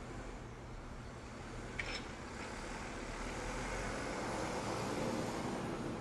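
Garbage truck engine running steadily, with a single sharp knock about two seconds in, the sound growing a little louder in the second half.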